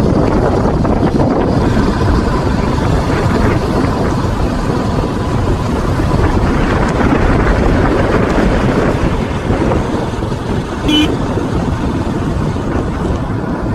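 Steady rumbling wind and motion noise on the microphone of a moving bike ride. About eleven seconds in there is one short, high toot.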